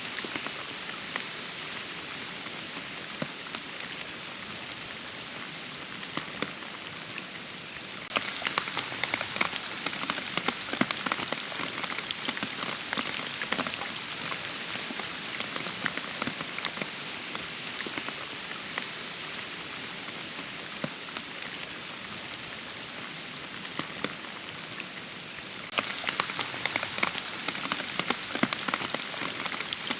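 Steady rain with a dense patter of individual drops. It turns abruptly heavier and louder about a quarter of the way in, eases off gradually, then steps up again near the end.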